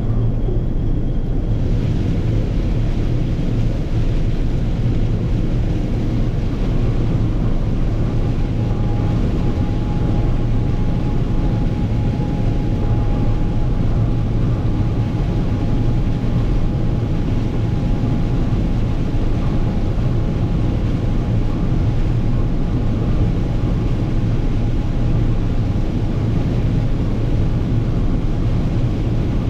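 Massey Ferguson 9690 combine running steadily under load while shelling corn, a constant low rumble of engine and machinery. A faint steady whine joins it about eight seconds in.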